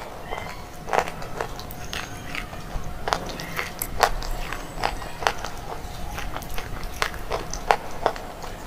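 Crunching as a hard, chalky slate bar is chewed: sharp crisp crunches at an uneven pace of about one a second, with fine crackling between them.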